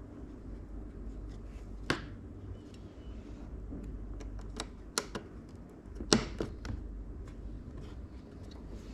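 Sharp clicks and lighter taps of PC parts and tools being handled, over a low steady hum. The loudest clicks come about two seconds in, at five seconds, and in a cluster just after six seconds.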